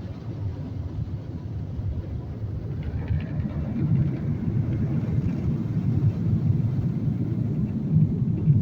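Touch-free car wash's onboard blower dryers running, a steady low rumble of rushing air heard from inside the car, growing louder about three seconds in.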